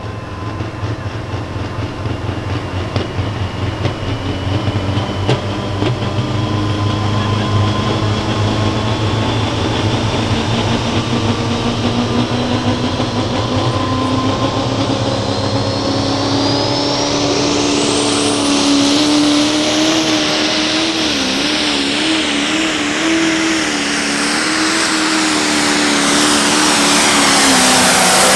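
Massey Ferguson light pro stock diesel pulling tractor running hard, getting steadily louder. A high turbocharger whine climbs steeply about two-thirds of the way through and then holds high as the tractor pulls under load.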